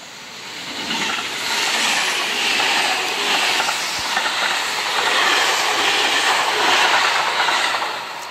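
Seibu 001 series Laview electric train passing close by, its wheels running on the rails. The rushing noise builds over the first second or two, stays loud while the cars go by, and fades near the end.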